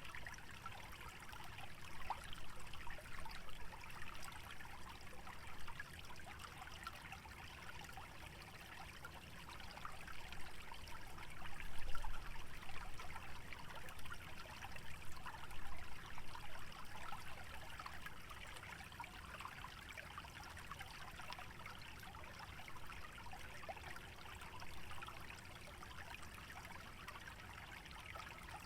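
Small wetland stream trickling and babbling steadily, growing louder for a few seconds about a third of the way in.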